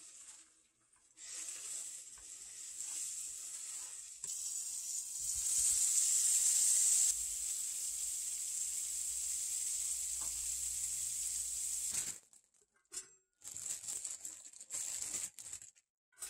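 Seasoned shrimp sizzling in a frying pan as they are turned with chopsticks: a steady hiss that cuts off suddenly near the end. Before it, a quieter sizzle of eggs being scrambled in the same pan.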